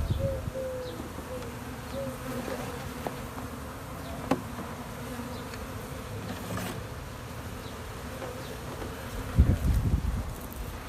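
Honey bees of a swarm buzzing close to the microphone, single bees passing by with their pitch rising and falling over a steady hum of many wings. A few low thumps come near the end.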